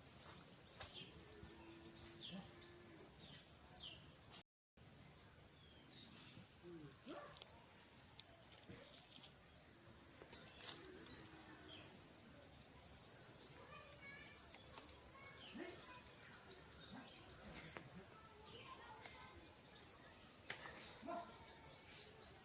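Faint outdoor ambience: a steady high insect drone with scattered short bird chirps and light clicks; the sound cuts out completely for a moment about four seconds in.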